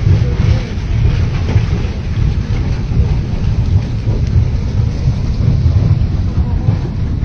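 Huayco, a mud and debris flow, rushing past: a loud, steady low rumble with a hiss of churning water over it.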